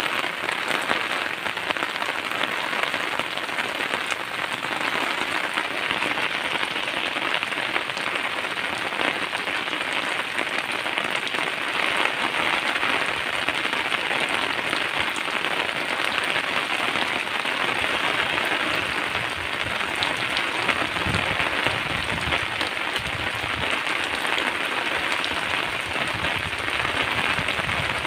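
Heavy rain falling steadily onto a wet paved surface and leaves: a dense, even hiss.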